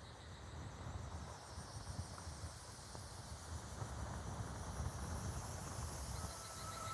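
Dark ambient soundscape: a low rumble under a high, evenly pulsing chirr like crickets, slowly swelling. A steady high tone comes in near the end.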